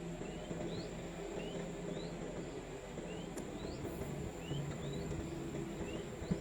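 Samsung microwave oven running on a heating test with its newly fitted magnetron: a steady low hum. Short rising bird chirps repeat over it.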